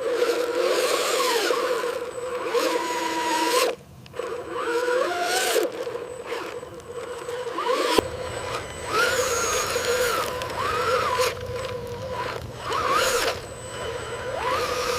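Electric motors of a radio-controlled model truck whining, the pitch rising and falling as it drives and manoeuvres, with a sharp click about eight seconds in.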